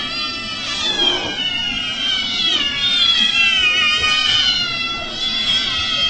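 Cats meowing: several high calls overlapping without pause, sliding up and down in pitch.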